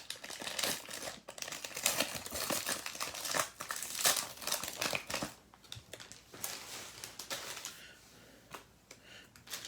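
Foil trading-card pack wrapper being torn open and crinkled, dense crackling for about five seconds, then sparser rustles and light ticks that die away near the end.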